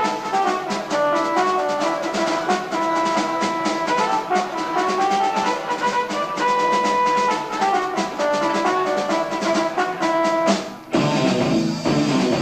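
Progressive rock band playing live on an amateur tape recording: fast, busy drumming under held melodic lines. About eleven seconds in the music stops abruptly and a new, lower passage starts.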